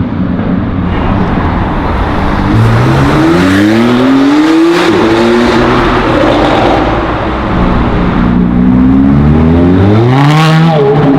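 Performance car engine accelerating hard as the car pulls away, its pitch climbing twice through the revs. Near the end the pitch drops suddenly at a gear change.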